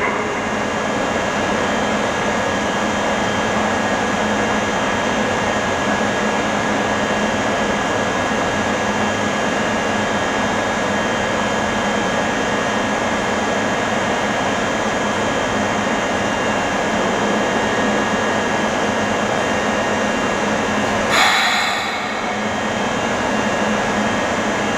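Steady mechanical hum and hiss with a thin, constant whine, the equipment and ventilation noise of an electric train standing at an underground platform. A short burst of hiss comes about 21 seconds in.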